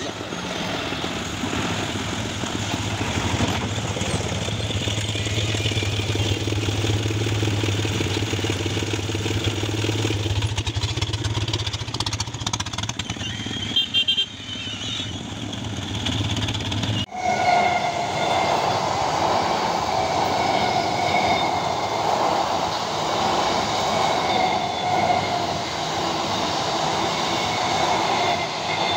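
Steady low engine hum of road traffic at a railway underpass. After an abrupt cut about 17 seconds in, an electric multiple-unit local train runs over the bridge above: a steady rumble with a steady high whine.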